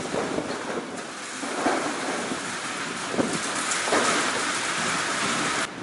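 Heavy rain falling on a flat concrete rooftop: a steady hiss that swells a little around the middle and drops off sharply just before the end.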